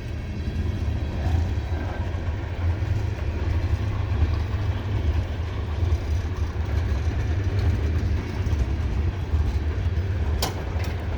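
Diesel locomotives of a loaded coal train running slowly, a steady low engine rumble, as the train slows for a restrictive signal. A single sharp click sounds near the end.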